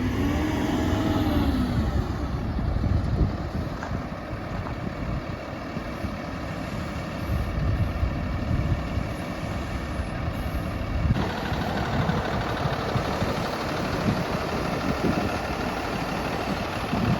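Heavy dump truck engine running steadily, with a brief rise and fall in pitch in the first two seconds. The sound turns brighter and hissier about eleven seconds in.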